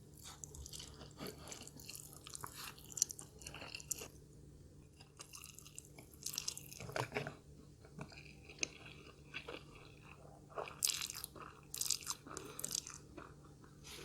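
Close-miked chewing and biting of Indomie Mi Goreng fried noodles, in irregular bursts of wet, crackly mouth noises with short pauses between them.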